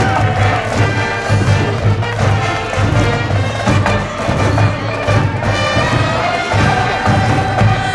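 High-school cheering band playing a cheer tune: brass instruments over a steady bass-drum beat.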